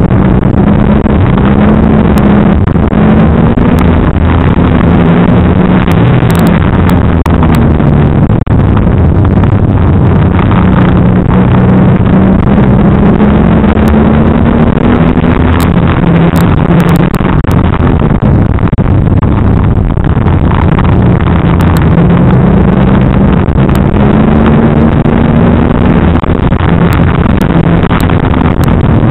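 Banger racing car's engine heard loud from inside the cabin under racing load, its revs climbing steadily for several seconds and then dropping back, over and over.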